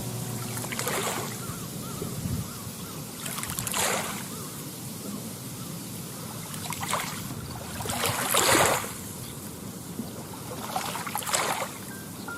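Small waves lapping at the lake shore, with a soft wash between separate splashes every two to three seconds, the loudest about two thirds of the way through.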